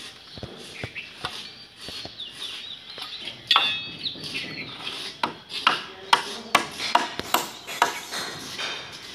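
Birds chirping, with a run of sharp knocks about two a second in the second half.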